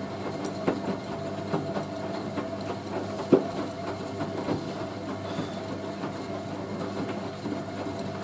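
Hoover A3060 Electronic 1100 washing machine running in the heating stage of a 95 °C boil wash, its drum tumbling a load of towels: a steady motor hum with irregular clicks and knocks, one louder knock about three seconds in.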